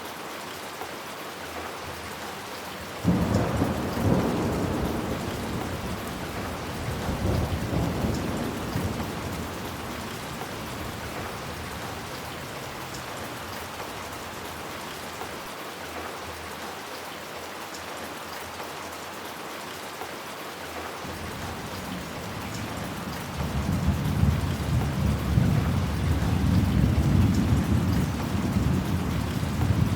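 Steady heavy rain falling, with thunder. A rumble breaks in suddenly about three seconds in and fades away over several seconds, swelling once more before it dies. A second long rumble builds near the end.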